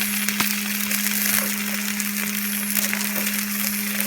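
Takoyaki sizzling in hot oil in the pan, a steady hiss full of small crackles and pops, with a steady low hum underneath.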